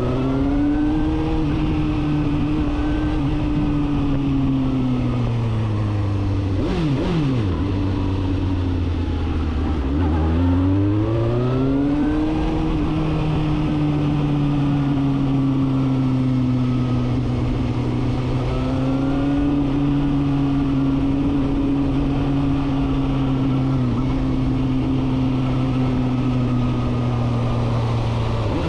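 Suzuki GSR750's inline-four engine with a full 4-into-1 Akrapovic exhaust, running under way on the road. The revs climb in the first second, fall away between about seven and ten seconds in, then climb back and hold a steady cruising pitch.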